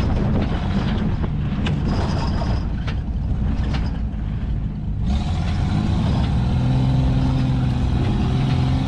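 Truck engine running at low speed while driving, heard from inside the cab, with a few light knocks in the first few seconds. About five seconds in, a broad rushing noise joins it.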